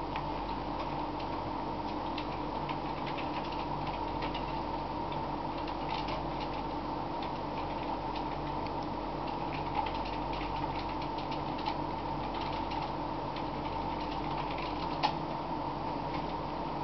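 Kitten eating, with small irregular clicking and smacking sounds of chewing, over a steady electrical hum.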